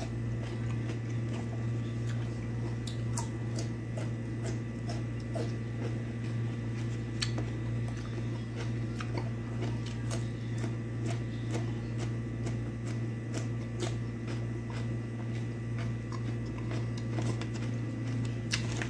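Person eating with their fingers: scattered soft clicks and smacks of chewing and biting raw cucumber, over a steady low hum.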